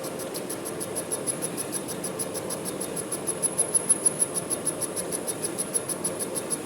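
Manual metal lathe running, with a steady hum and a high-pitched tick repeating about six times a second that grows louder partway through.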